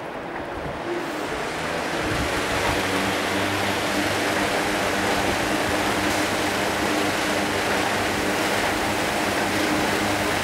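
Battery-powered pedestal fan blowing hard: a rush of air that builds over the first two seconds as the fan comes up to speed, then holds steady over a low, steady motor hum. Its airflow spins a small DC motor's propeller, turning the motor as a generator.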